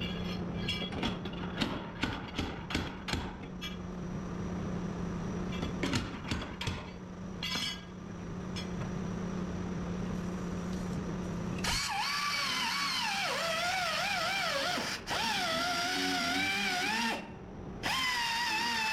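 A power tool running with a steady hum, with irregular clicks and taps over it; about twelve seconds in it cuts off and music with a wavering melody takes over.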